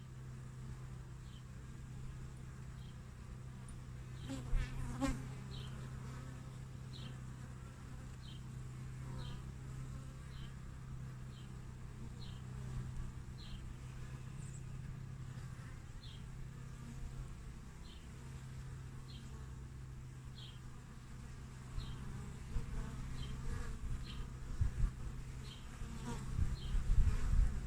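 Honeybees buzzing steadily at the hive entrance as a continuous low hum. It swells into louder, uneven bursts about four to five seconds in and again through the last few seconds. A faint, short, high chirp repeats about once a second behind it.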